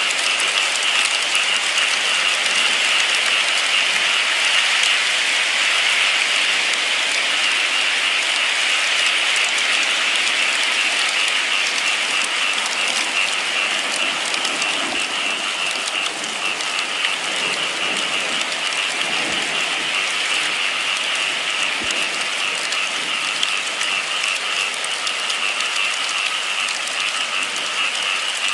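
Steady, continuous rainfall, a dense unbroken hiss with a steady high-pitched ringing layered through it.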